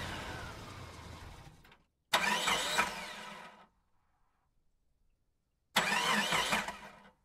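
Engine cranking over without catching, in repeated attempts: each starts abruptly and dies away after a second or two. The engine won't start.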